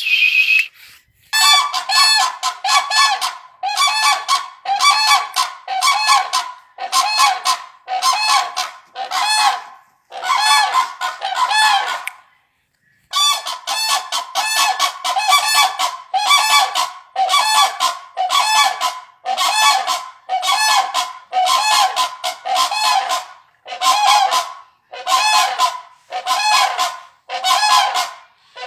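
Crane (konj) calling: a loud run of rolling, honking calls repeated about once a second, with a short break about halfway through.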